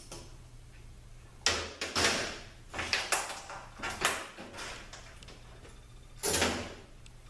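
Dipstick and filler tube being pulled out of a Nissan RL3F01A automatic transaxle case: a handful of short metal scrapes and knocks, the loudest near the start and near the end.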